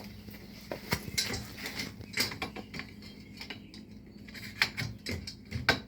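Light clicks, clinks and knocks of metal and plastic garage door opener parts being handled and fitted together, with two sharper knocks near the end.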